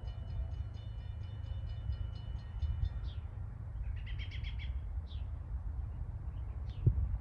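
Songbirds chirping: a quick run of high repeated chirps, then a short trill and several single calls, over a low steady rumble. Near the end a single sharp thump is the loudest sound.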